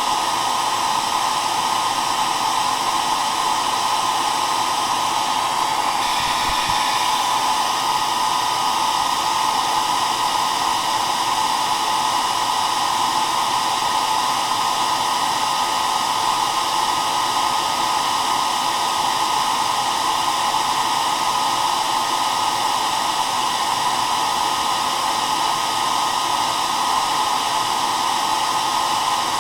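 Hair dryer running steadily, an even blowing hiss with a motor hum strongest in the mid range.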